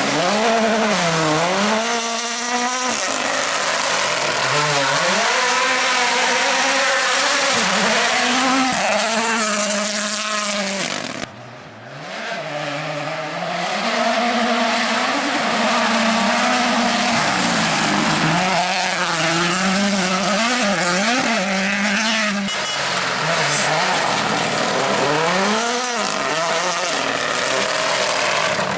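Rally car engines running hard on a special stage, loud throughout, the engine note rising and falling over and over with throttle lifts and gear changes. About eleven seconds in the sound drops out briefly, then another stretch of hard-driven engine follows.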